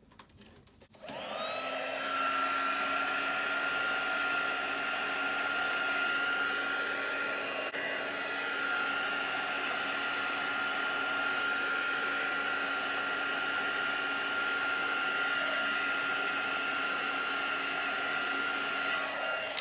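Craft heat tool (embossing heat gun) switched on about a second in, its fan spinning up to a steady whirring whine with a high tone, then running evenly and cut off at the end; it is blowing hot air to dry a card piece that hasn't quite dried.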